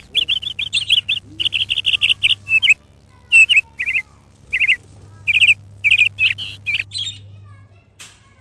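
Moustached parakeet chirping: a rapid run of short, high chirps, then shorter bursts of chirps separated by brief pauses, fading out near the end.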